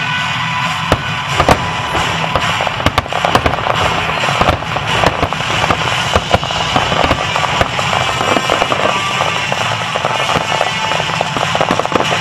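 Aerial fireworks bursting: sharp bangs from about a second in, then dense crackling from many small exploding stars, over music played for the synchronized show.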